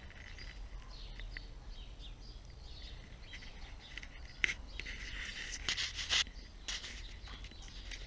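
Faint birds chirping, with a few short clicks or knocks, the clearest about halfway through.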